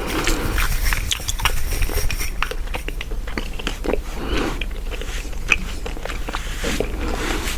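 Chewing gum close to the microphone, with many short, irregular clicks of the mouth and gum.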